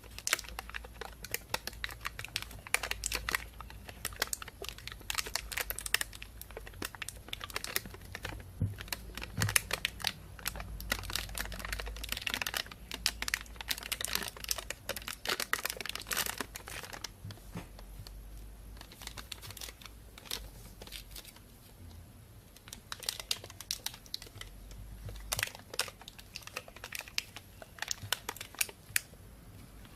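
Thin plastic bag crinkling and rustling as it is handled, a dense run of irregular crackles that comes and goes in louder and softer spells.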